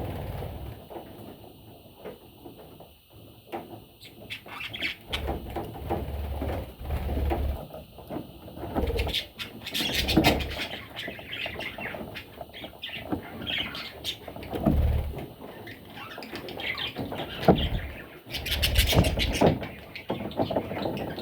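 Budgerigars chirping and chattering in irregular bursts, with a few louder bumps and rustles mixed in.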